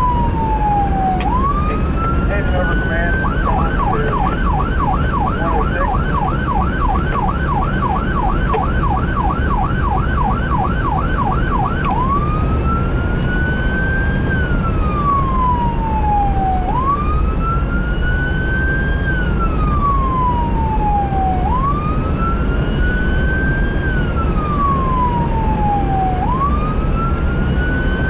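Emergency vehicle siren sounding over a heavy engine and road rumble. It starts on a slow wail, each rise and fall taking about five seconds. A few seconds in it switches to a fast yelp of about three cycles a second, then about twelve seconds in it goes back to the wail.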